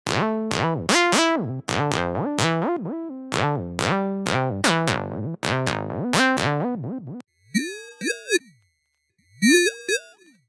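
Xfer Serum software synthesizer playing bass presets: a quick phrase of short, punchy notes whose bright top fades fast after each hit. About seven seconds in it switches to a different patch that plays two separate notes, each gliding up and back down in pitch.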